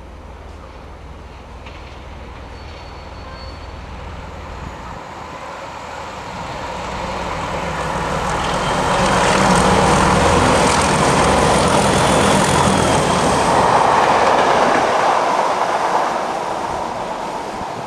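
Class 31 diesel locomotive's English Electric V12 engine growling as the train passes. It grows louder over the first half, is loudest in the middle with the rumble of the train on the rails, and eases off near the end.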